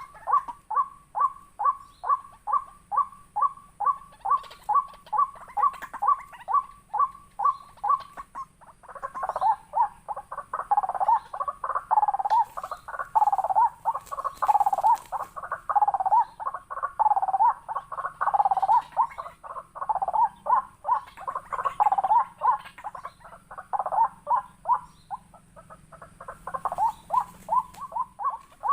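Waterhens calling: a fast, very regular run of identical calls, about three a second, joined about nine seconds in by a second, lower, bending series of calls that overlaps them until near the end.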